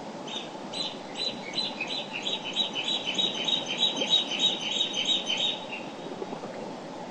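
A songbird sings a long run of repeated high notes that come quicker as it goes, over the steady rush of a mountain river. The song stops about a second and a half before the end, leaving only the river.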